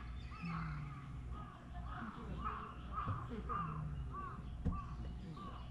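A bird calling in a long run of short, repeated notes, about two or three a second, over a low outdoor rumble.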